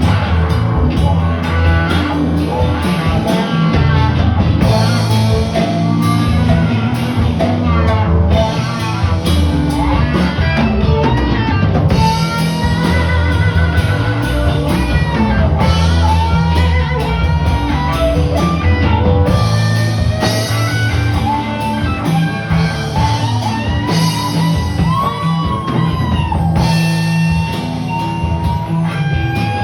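Live rock band playing: electric guitar lead with bent, wavering notes over bass and drum kit.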